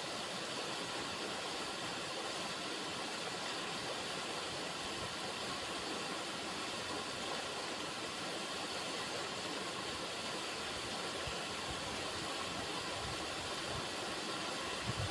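River water running in a steady, even rush. A brief low thump comes near the end.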